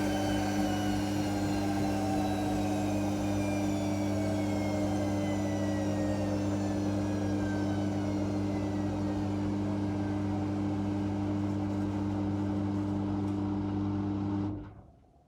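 Whirlpool Indiana 1400 washing machine at the end of a spin, the drum slowing down with a whine that falls steadily in pitch over a constant low hum. The machine stops abruptly near the end, leaving only faint small sounds.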